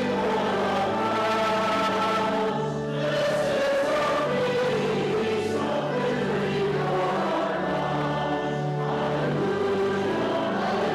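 A choir and congregation singing a hymn together over steady, held low accompaniment notes.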